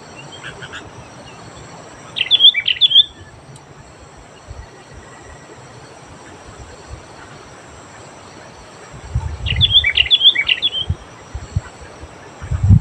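Sooty-headed bulbul singing two short bursts of quick, bubbly whistled phrases, about two seconds in and again about nine seconds in, over a steady background hiss. Low rumbles come in over the second half.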